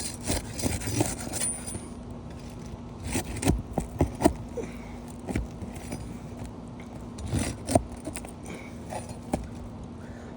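Metal flat bar prying and scraping under asphalt roof shingles to break the tar-strip seal and free the nails: irregular scrapes and sharp clicks, with louder bunches of knocks about three and seven seconds in.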